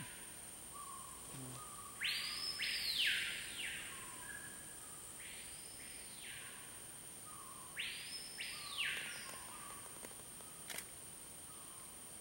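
A bird calling: loud whistled notes that each rise and fall in pitch, given in three bouts, two of them as pairs, over a thin steady high whine.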